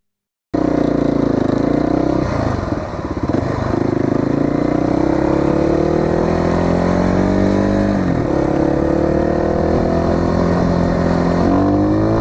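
Motorcycle engine accelerating through the gears. It cuts in abruptly about half a second in, its pitch climbs steadily and drops sharply at each of three upshifts.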